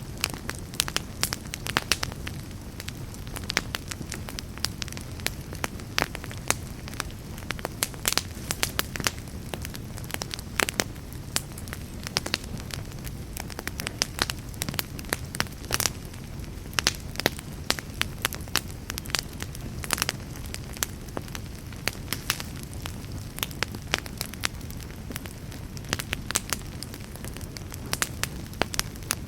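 Fireplace fire crackling, with frequent sharp irregular pops and snaps over a steady low rumble of the flames.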